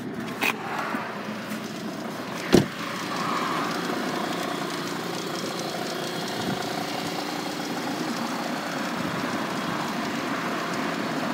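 A sharp thump about two and a half seconds in, then a 2.4-litre five-cylinder turbo diesel (Volvo V70 2.4D) idling steadily.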